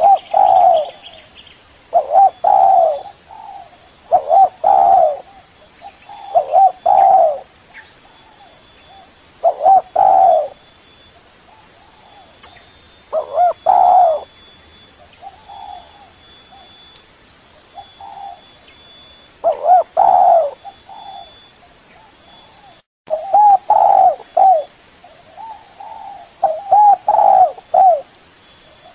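Spotted dove cooing, a recorded lure call: short repeated coo phrases coming every couple of seconds, some in quick runs of several notes near the end. The sound cuts out completely for a moment about two-thirds of the way through.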